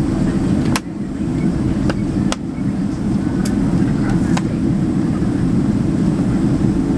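Steady low cabin noise inside a Boeing 767-300 in flight, broken by four sharp clicks or knocks in the first four and a half seconds.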